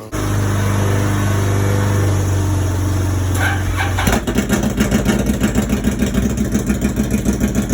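Can-Am Renegade ATV's V-twin engine running, cutting in suddenly. About four seconds in its note changes to a rapid, even pulsing.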